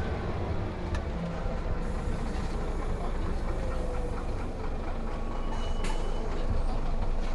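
Van Hool A320 city bus heard from inside the passenger cabin: steady engine and drivetrain rumble with road noise, a click about a second in and a sharp click with a brief high tone near six seconds in.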